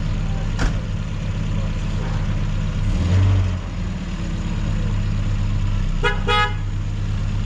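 Motor vehicle engine running steadily, with a click just after the start and two short horn toots in quick succession about six seconds in.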